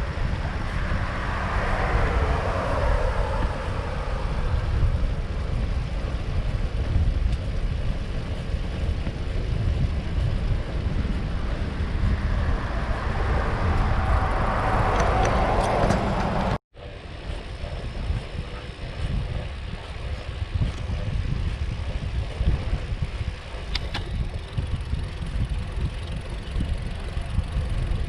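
Outdoor road noise: a steady low rumble like wind buffeting the microphone, with a vehicle swelling past twice. After a sudden cut about two-thirds of the way through, a similar rumble continues with a few faint clicks.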